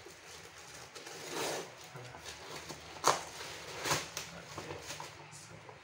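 A parcel's packaging rustling and crinkling as it is opened by hand, in short uneven swishes, with a sharp click about three seconds in.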